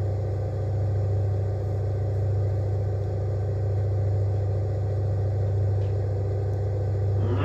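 Washing machine running with a steady low hum that does not change.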